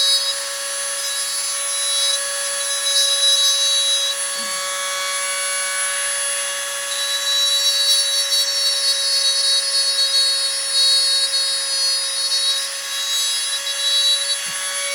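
Small high-speed rotary tool running with a steady whine, its bit grinding hardened J-B steel epoxy putty on a slot car body. The scraping grows and fades as the bit bears on and eases off the work.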